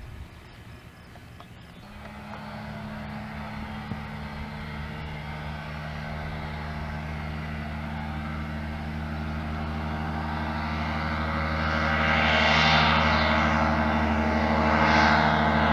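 Ultralight aircraft engine and propeller running, a steady drone that starts about two seconds in and grows steadily louder as the aircraft approaches.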